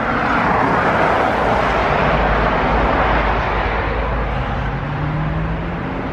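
A road vehicle going by: loud tyre and road noise at first, easing into a low engine drone with a faint, slowly rising tone.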